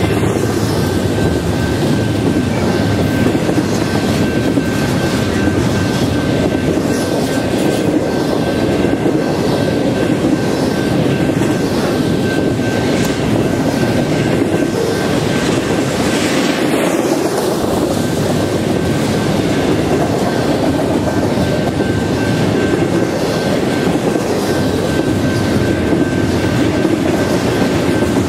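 Double-stack intermodal container train rolling past at close range: a steady rumble of steel wheels on rail with an evenly repeating clatter of wheelsets, and a thin steady high whine over it.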